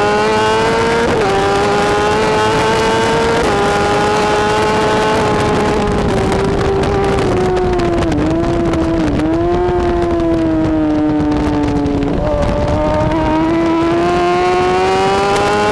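BMW S1000RR superbike's inline-four engine racing hard. Its pitch climbs and drops sharply at upshifts about a second and three and a half seconds in, sags with two brief dips midway, then climbs again near the end, over steady wind and road noise.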